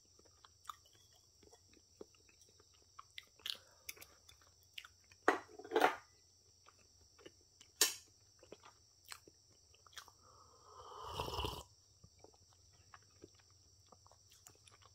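Quiet mouth sounds of a person chewing soft chocolate fudge cake, with scattered small clicks and taps. There are a few louder short sounds around the middle and one longer, louder noisy sound about ten seconds in.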